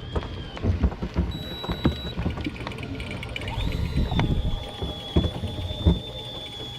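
Electric fishing reel running with a thin steady whine, which steps up in pitch about halfway through. Under it are irregular low knocks and thumps of the boat at sea.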